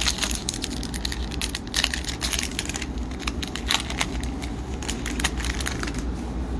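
Hockey trading cards and their pack wrapper being handled: an irregular run of quick crinkles, crackles and clicks.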